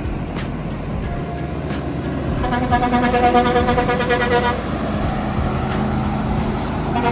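Truck engine running with a pulsing, multi-tone horn blast lasting about two seconds, starting a couple of seconds in.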